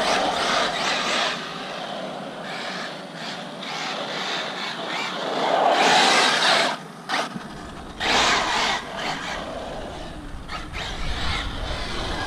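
Arrma Mojave 6S brushless RC truck driving over grass: its motor, drivetrain and tyres surge loudly three times, at the start, around six seconds and around eight seconds, and ease off between.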